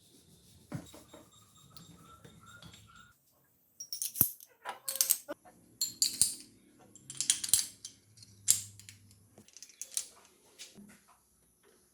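Small metal parts clinking and clattering against each other and on a hard surface: a string of sharp clicks and clinks for several seconds after a faint start.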